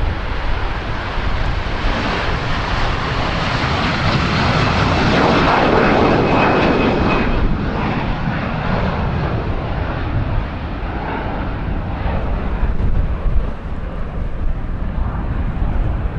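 Jet engines of a twin-engine Airbus A330 at takeoff power, a broad roar that swells to its loudest about six seconds in, then turns duller and fades as the airliner climbs away. Wind rumbles on the microphone underneath.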